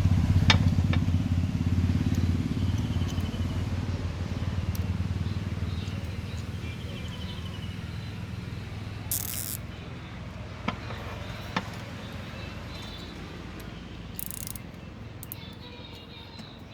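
A vehicle's engine running with a low, rapidly pulsing rumble that fades steadily away, as if the vehicle is driving off. A few sharp clicks and two short bursts of hiss come in the second half.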